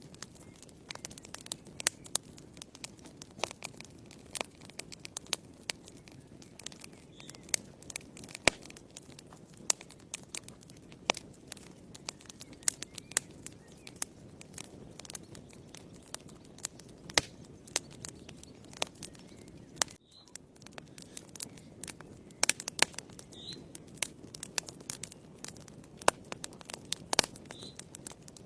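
Fireplace fire crackling: frequent, irregular sharp pops and snaps over a low, steady rumble of the flames.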